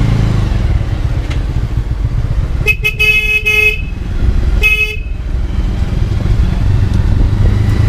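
A vehicle horn honks twice, a blast of about a second and then a short one, over the steady run of a motorcycle on the move with wind rushing on the microphone.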